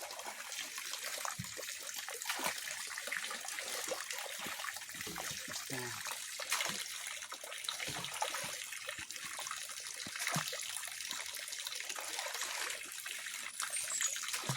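Pond water splashing and trickling, with many small irregular splashes as the water is worked by hand.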